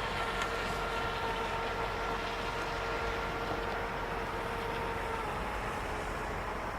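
Hydropro Inception RC boat's electric motor whining steadily as the boat runs on the water, the pitch dropping slightly about five seconds in as it eases off, over a steady rushing background.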